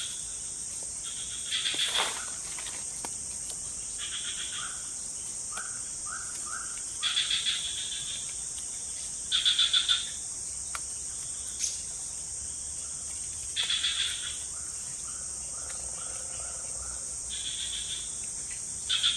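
Tropical forest insect and frog chorus: a steady, high-pitched insect drone, broken every few seconds by a short, rapidly pulsed call, with a few quick, softer chirps in between.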